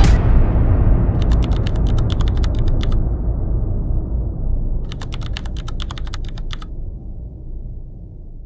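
Sound effects: a sudden deep boom that rumbles away slowly, overlaid twice by a spell of rapid clicking like typing on a computer keyboard.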